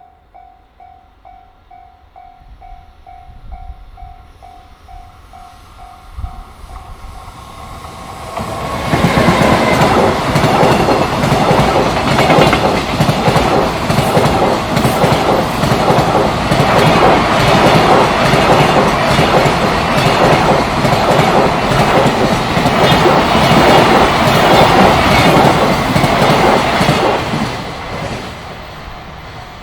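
A freight train passing close by, loud, with the rhythmic clatter of its wagons' wheels over the rail joints; it arrives suddenly about eight seconds in and fades away near the end. Before it arrives, a high ding repeats about twice a second.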